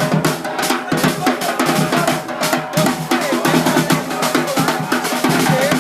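Drums playing a warm-up: dense, rapid snare strokes and rolls over bass drum hits.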